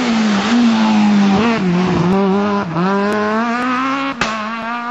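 Rally car engine revving hard under throttle, its pitch dipping and climbing again several times as the driver works the throttle through a drift, over tyre noise. A single sharp crack about four seconds in.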